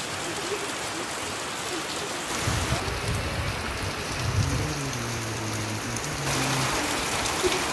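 Heavy monsoon rain falling steadily on the ground and foliage, getting louder about six seconds in. Some low, wavering pitched tones sound faintly underneath from about two seconds in.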